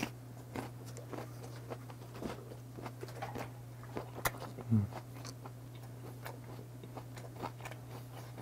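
A person chewing a piece of boiled beef tongue with the mouth closed: many small wet clicks and smacks of chewing, with one short "mm" hum about halfway through. A steady low hum sits underneath.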